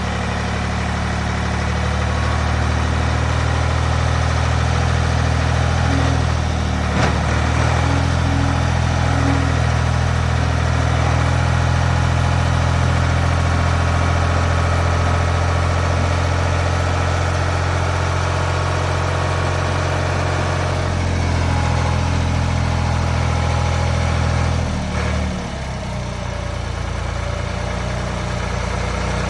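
Ford 455A tractor engine running steadily. It picks up slightly in speed about two seconds in and settles back down about 25 seconds in, with a single sharp click near seven seconds.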